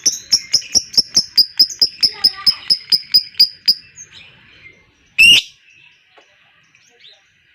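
Lovebird giving its long 'ngekek' chatter: a fast, even run of sharp, shrill chirps at about four to five a second that stops after about four seconds. One loud, harsh squawk follows about five seconds in.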